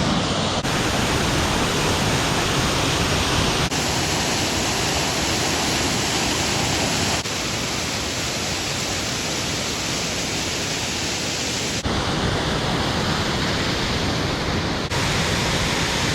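Waterfall rushing: a loud, steady roar of falling water, heard in several short clips that cut abruptly from one to the next.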